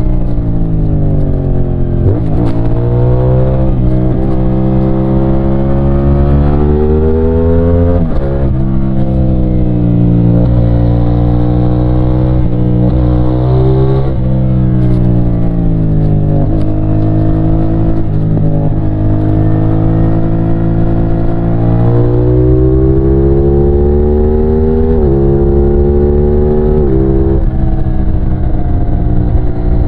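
CFMOTO 450SR's 450cc engine under way: the pitch climbs as it pulls through the revs, drops suddenly at each upshift, and falls off over longer stretches as the bike slows.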